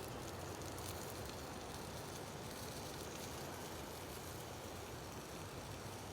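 Steady hissing outdoor background noise with a few faint ticks.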